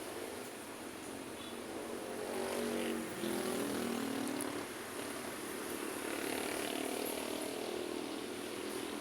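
Road traffic passing, with vehicle engines swelling and shifting in pitch as they go by. The loudest pass comes about three to four seconds in.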